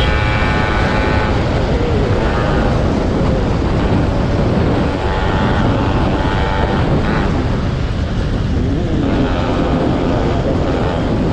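Yamaha RX100 two-stroke motorcycle engine and exhaust running steadily while the bike is ridden.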